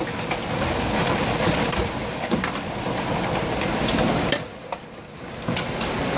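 Hailstones pelting down in a dense clatter of many sharp impacts. The hail eases for about a second past the midpoint, then comes back just as hard.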